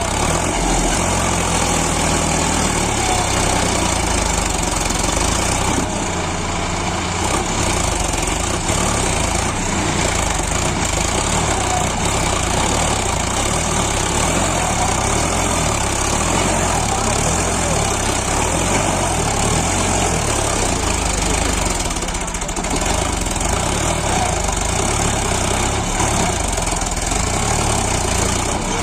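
Sonalika DI 745 tractor's diesel engine running steadily, easing off briefly twice.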